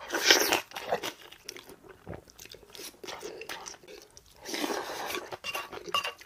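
Close-miked eating: a loud crunchy bite into napa cabbage kimchi just after the start, then irregular chewing and mouth noises.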